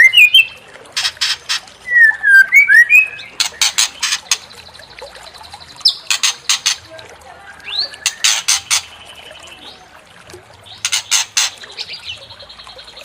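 White-rumped shama (murai batu) song: bursts of harsh, rapid chattering clicks alternating with a few slurred whistled notes in the first three seconds and several buzzy, held trills.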